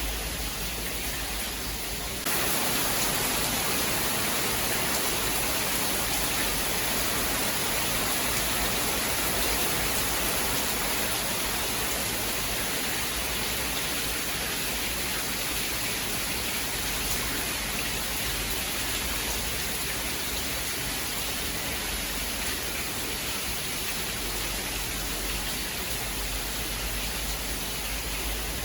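Steady heavy rainfall that turns suddenly louder and hissier about two seconds in, then slowly eases.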